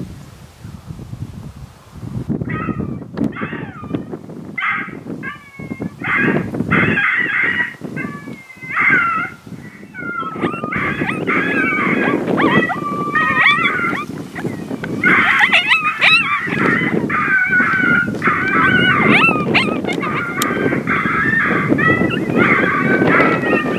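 Mouth diaphragm predator call blown in a run of coyote-style yips, whines and short howls, starting a couple of seconds in with a brief pause about two-thirds through. Wind rumbles on the microphone throughout.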